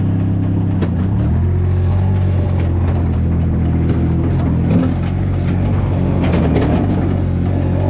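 Compact loader's engine running steadily under the operator's control, its note dropping to a lower speed about a second and a half in, with scattered clicks and knocks from the machine.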